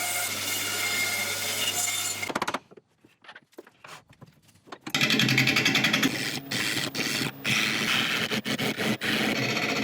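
A power tool cutting into chestnut burl wood, a steady, noisy scraping over a low motor hum. It breaks off for about two seconds, then comes back louder, choppy and often interrupted.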